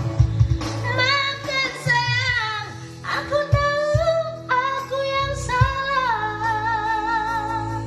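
A solo singer's voice in a pop ballad, holding long wavering notes with vibrato over backing music with a steady beat.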